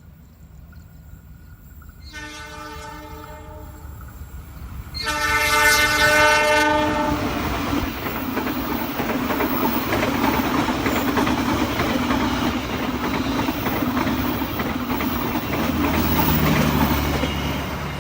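Train horn sounding twice, a longer blast and then a louder one, followed by the train passing close by with a steady loud rumble and clatter of wheels on the rails.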